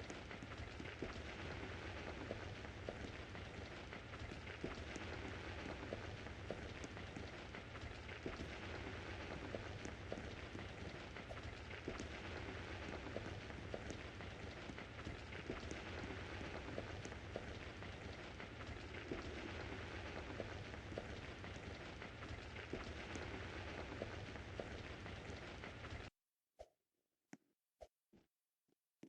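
Steady hissing, pattering noise with many fine ticks, like rain on a surface, that cuts off suddenly near the end, followed by a few sharp clicks.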